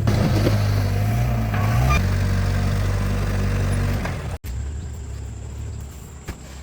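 Truck engine running steadily, rising briefly in pitch about a second in. The sound breaks off sharply a little past halfway, then the engine hum carries on and fades away.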